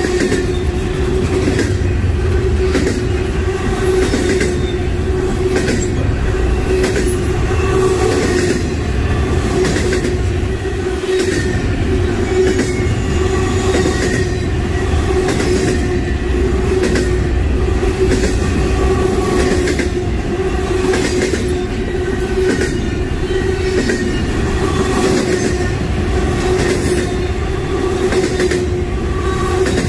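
Freight train cars rolling steadily past, wheels clicking over rail joints about once a second, with a constant high wheel squeal.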